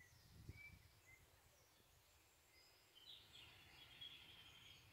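Near silence: faint outdoor ambience with birds chirping now and then, a short warble of song about three seconds in, and a brief low rumble about half a second in.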